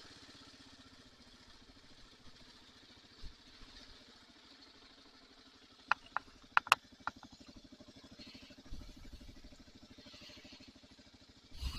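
Kawasaki KLR single-cylinder motorcycle engine running steadily while riding. A few sharp clicks come about six to seven seconds in.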